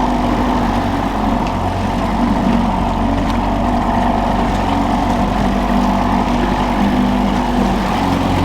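Boat's outboard motor running steadily at trolling speed, an even engine drone.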